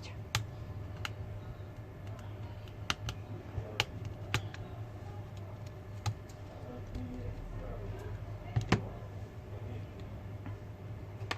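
Irregular sharp clicks and taps of tools and plastic parts as a Samsung Galaxy A50 is being taken apart, its SIM tray and middle frame coming out, over a steady low hum.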